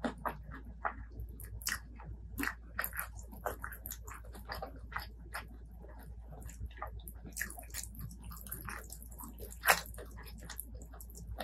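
Close-miked eating sounds: a person biting and chewing food, many short sharp mouth clicks at irregular intervals, with one louder one about ten seconds in.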